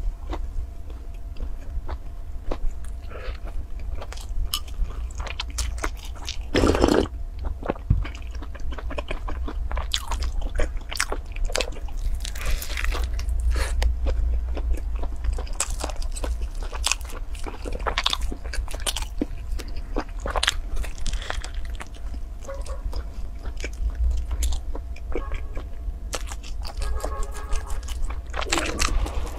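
Close-up mukbang eating sounds from biting into and chewing a thick toast sandwich with lettuce: repeated crunchy bites and chewing, with one louder bite about seven seconds in. A steady low hum runs underneath.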